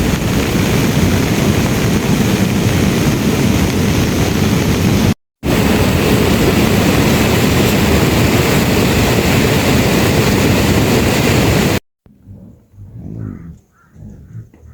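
Heavy rain pouring down: a dense, steady hiss, broken by a brief gap about five seconds in. Near the end it stops suddenly and gives way to much quieter, faint low sounds.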